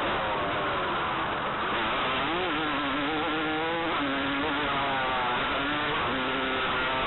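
Motocross dirt bike engine running under hard riding, its pitch climbing and dropping several times as the throttle is opened and closed, over a steady rushing noise.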